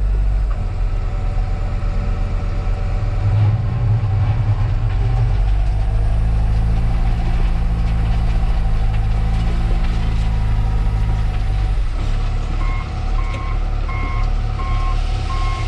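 Diesel engine of a front-end loader running under work, revving up a few seconds in and dropping back about twelve seconds in. Near the end a reversing alarm starts beeping, about two beeps a second.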